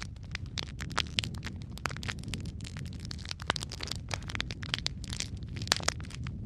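Wood fire crackling in a fireplace: many sharp, irregular pops and snaps over a steady low rumble of the burning.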